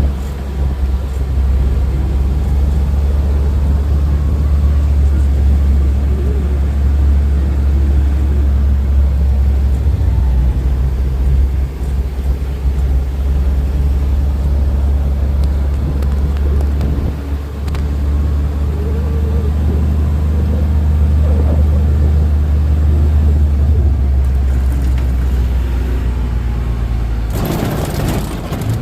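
Steady low engine rumble of a moving vehicle, with a brief loud rush of noise near the end.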